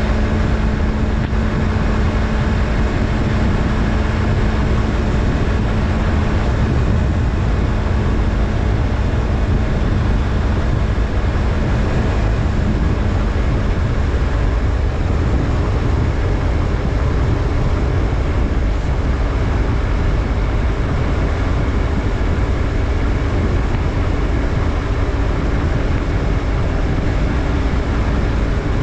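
Yamaha MT-03's 321 cc parallel-twin engine running steadily under way, mixed with heavy low wind rumble on the microphone. The engine note holds steady, then shifts slightly about halfway through.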